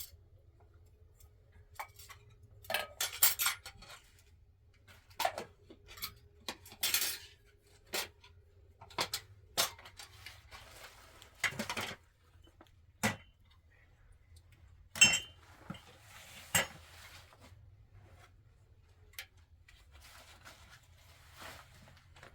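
Spoons and cutlery clinking and scraping against plates now and then as people eat a meal, in irregular short taps with a few longer scrapes.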